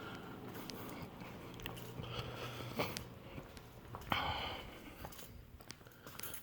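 Several ceiling fans running, with a steady low electrical motor hum. Scattered clicks and knocks of handling sit over it, and a short breathy sniff-like burst comes about four seconds in.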